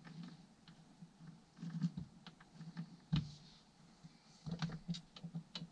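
Small clicks and clinks of transmission gears and parts being handled and turned by hand in an opened Kawasaki KD175 engine case, with a sharper knock about three seconds in.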